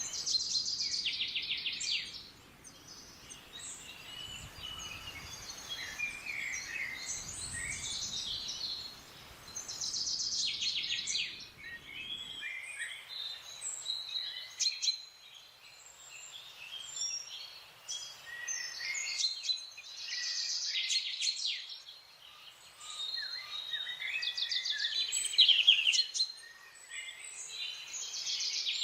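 Several wild forest birds calling and singing together, a mix of short chirps and fast, dry trills; a burst of trilling comes back about every ten seconds. A faint low rumble underneath stops suddenly about twelve seconds in.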